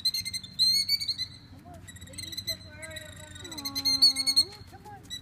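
Killdeer calling in quick, high-pitched bursts of repeated notes: the alarm calls of a parent bird disturbed near its nest and eggs.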